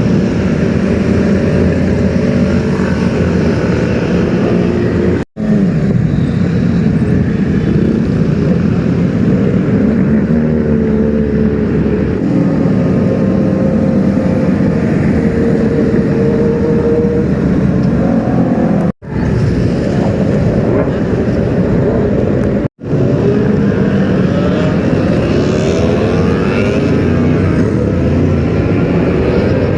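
Sport motorcycle engines running and revving in traffic, pitch rising and falling, heard in several clips cut abruptly one after another.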